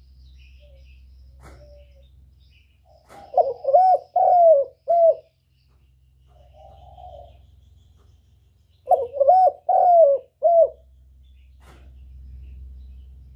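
Spotted dove cooing: two phrases, one about 3 s in and one about 9 s in, each a quick run of three or four coos ending in a short separate note, with a faint coo between them. A low steady hum runs underneath.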